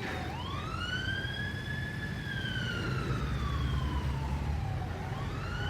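Emergency vehicle siren wailing: one slow rise and fall in pitch, starting to rise again near the end, over a low rumble.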